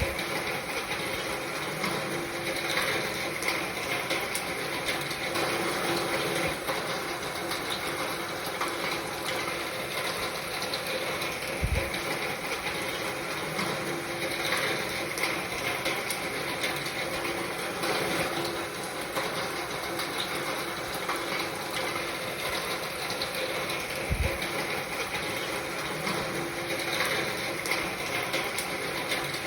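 Steady rain falling, an even crackling hiss, with a brief low thump about every twelve seconds.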